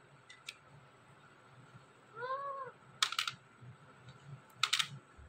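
Talking parrot giving one short meow-like call, rising then falling in pitch like a cat's meow, about two seconds in. It is followed by two brief clusters of sharp clicks, about 3 and 4.7 seconds in, which are the loudest sounds.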